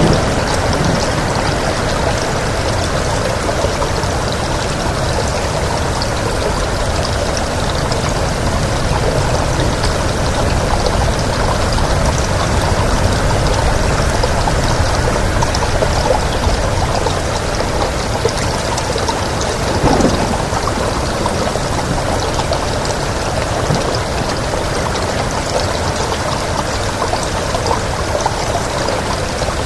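Steady heavy rain with wind, a continuous dense hiss and low rumble, with one brief louder sweep about twenty seconds in.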